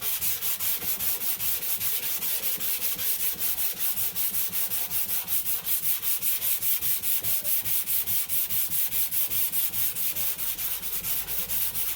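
Rapid back-and-forth hand sanding of body filler and paint on a car body panel with 220-grit sandpaper, a scratchy rasp in even strokes of about five a second. The sanding stops abruptly near the end.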